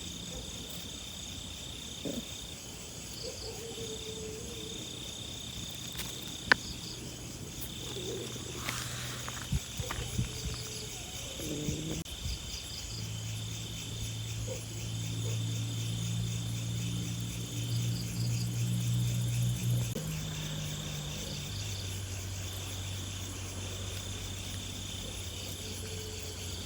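Insects chirping and trilling: a steady high-pitched drone that breaks off and resumes every second or two, with faster pulsed chirps above it. A low steady hum comes in about halfway through, and there is one sharp click about six seconds in.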